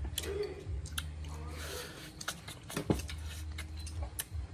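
Someone chewing food, with scattered short clicks and one louder knock a little before three seconds in, over a steady low hum.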